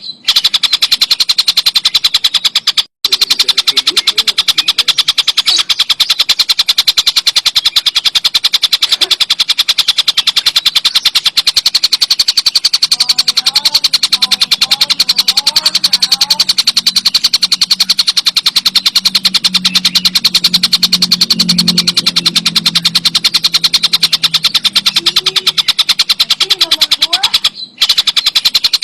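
Kingfisher (tengkek buto) call: a loud, very rapid rattling chatter of sharp, high repeated notes. It breaks off briefly about three seconds in and again near the end.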